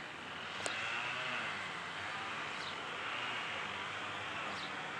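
Distant small propeller plane droning steadily overhead, with a couple of short, falling bird chirps and a single faint click a little under a second in.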